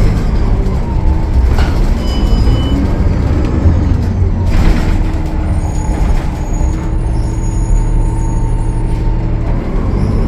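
A Gillig Low Floor transit bus's Cummins ISL9 diesel engine running under a heavy low rumble. A short high tone sounds about two seconds in, and a brief burst of air hiss comes about four and a half seconds in.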